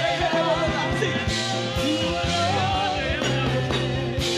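Worship music from a live band: a drum beat under a melodic lead line.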